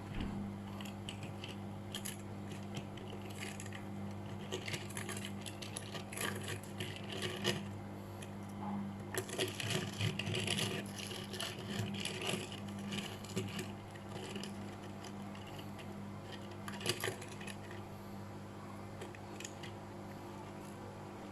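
Light clinking and clicking of small hard objects being handled, over a steady low hum.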